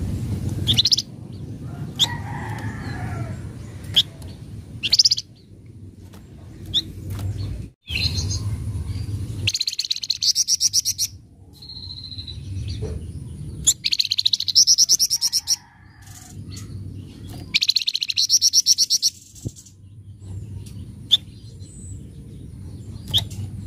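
Flamboyan songbird calling: several short high chirps, then three bursts of rough, rapid chattering trills, each about a second and a half long. A low rumble runs underneath.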